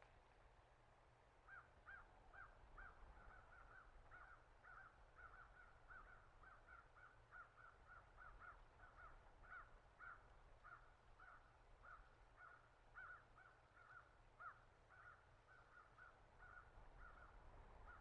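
A bird calling a faint, steady series of short, identical notes, about two or three a second, beginning a second or two in and going on without a break.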